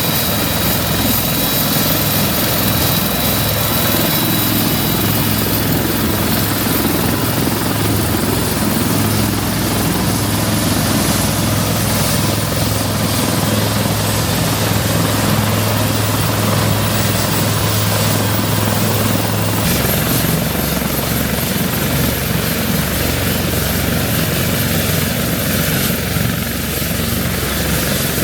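Westland Lynx helicopter running with its rotors turning, a loud, steady rotor and turbine noise. The low hum shifts suddenly about twenty seconds in.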